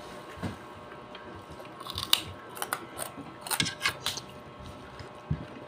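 Eating sounds: a run of sharp clicks and smacks from chewing and utensils, clustered from about two to four seconds in, over a low steady room hum.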